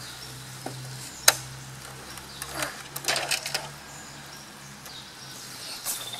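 Small plastic toys being handled: a sharp click about a second in, then a short run of clicks and rattles, over a steady low hum.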